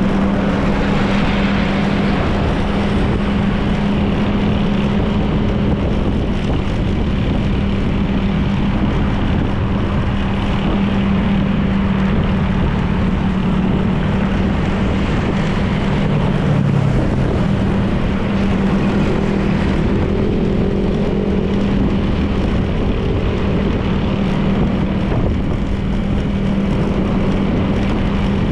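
Honda PCX 160 scooter's single-cylinder engine running at a steady cruise, one even hum, with wind and road noise on the camera microphone.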